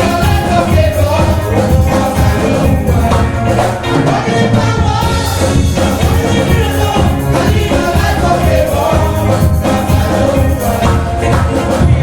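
A gospel group singing with live band accompaniment, with a steady beat.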